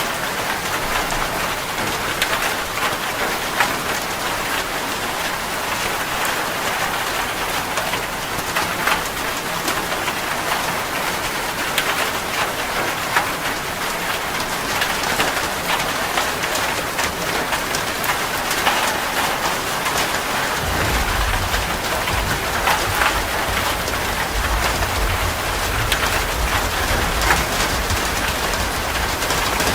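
Heavy rain falling on a metal roof, a steady hiss studded with sharp ticks of drops. About two-thirds of the way through, a low rumble of thunder comes in and keeps going.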